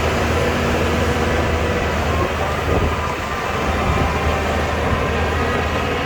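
Shantui DH17C2 bulldozer's diesel engine running steadily under working load, with a deep hum and a faint mechanical whine above it.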